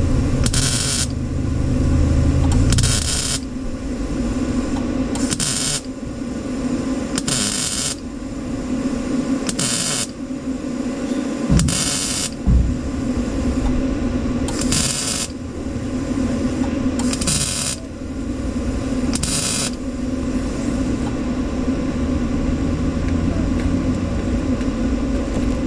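A welder laying short stitch welds on the truck's replacement sheet-metal rocker panels: about nine brief crackling bursts, each about half a second long and two to three seconds apart, stopping near the end. A steady hum runs underneath, and there are two dull knocks about midway.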